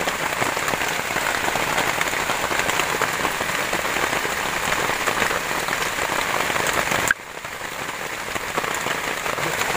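Steady rain falling, which drops suddenly to a softer level about seven seconds in.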